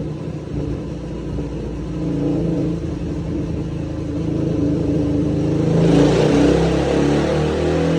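Suzuki DR-Z400 single-cylinder four-stroke engine with an MRD aftermarket exhaust running on a dynamometer, steady at low revs. About six seconds in the throttle opens: it gets louder and the pitch starts to climb as a dyno pull begins.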